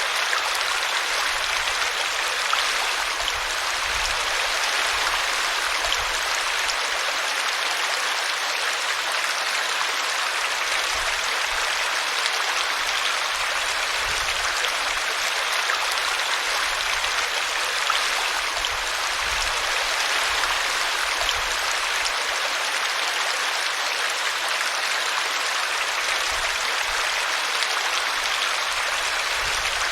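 Small brook running steadily and splashing as it tumbles over a tree root, an even, unbroken water sound.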